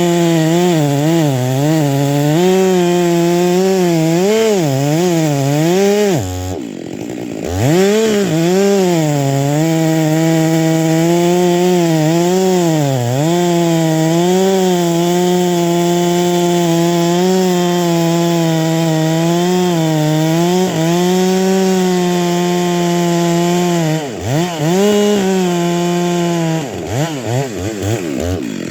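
Chainsaw running at high revs as it cuts through wood, its pitch sagging and recovering again and again as the chain bites. About six seconds in it drops off to idle for a moment, then revs back up; near the end the throttle is blipped up and down several times.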